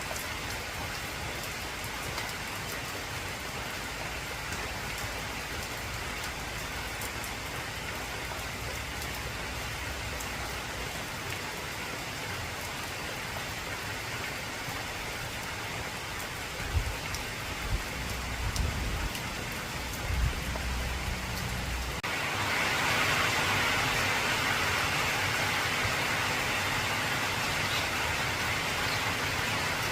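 Heavy rain drumming steadily on a corrugated tin roof. A few low rumbles come about two-thirds in, and then the rain turns abruptly louder and hissier.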